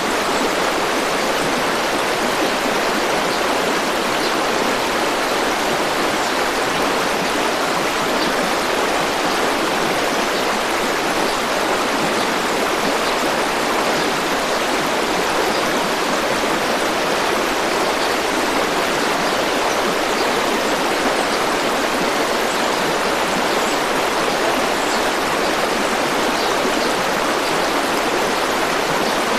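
A river flowing, a steady unbroken rush of water.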